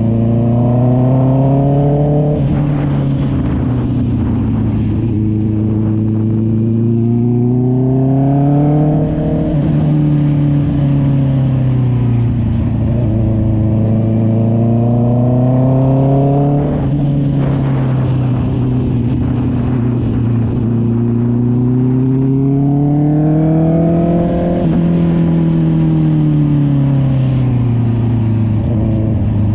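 Honda CB650R's inline-four engine running through an SC Project exhaust under way. The engine note rises and falls about four times as the revs climb and drop.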